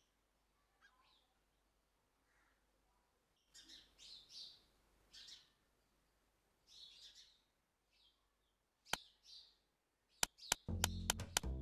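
Faint birds chirping in short high calls. About nine seconds in comes a single sharp click, then a quick run of clicks as music with a deep bass comes in near the end.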